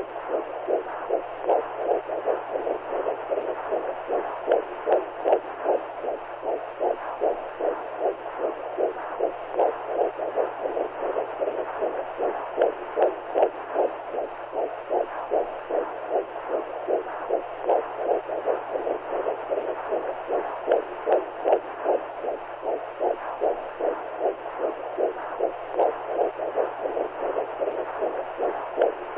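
Womb sound for soothing a newborn: a muffled, steady whooshing that pulses in a fast, even rhythm like a heartbeat heard through the mother's body.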